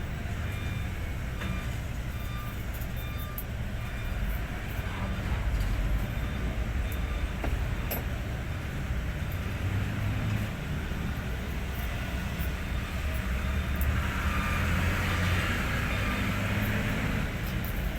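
Hino 500 truck's diesel engine running steadily with a low rumble. About fourteen seconds in, a hissing noise swells for a few seconds and then fades.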